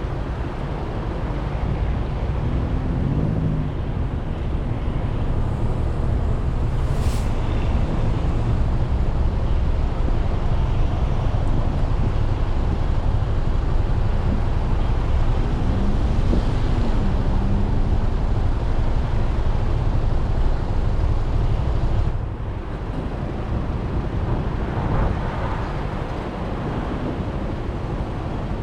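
Wind rushing over the GoPro microphone while riding a Suzuki Burgman 400 scooter, with the scooter's engine and road noise running underneath. The wind noise eases briefly about three quarters of the way through.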